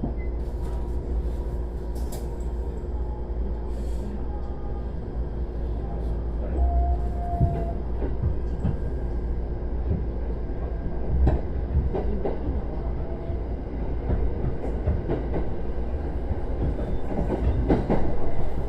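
JR East E129 series electric train running along the track: a steady low rumble of wheels on rail, with scattered clicks and knocks from the rail joints.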